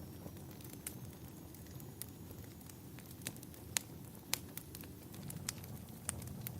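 Wood fire crackling in a fireplace: irregular sharp pops and snaps over a steady low rumble, with two louder pops near the middle.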